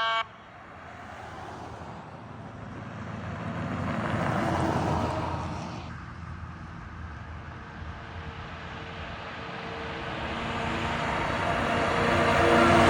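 Large trucks driving past one after another: the engine rumble and tyre noise of one swells and fades about five seconds in, and the next grows louder near the end.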